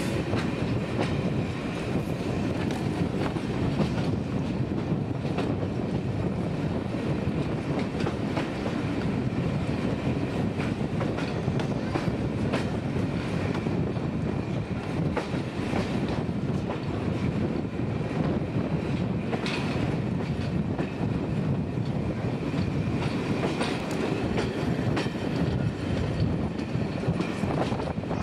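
Heard from aboard a moving train: steady running rumble of the wheels on the rails, with scattered faint clicks.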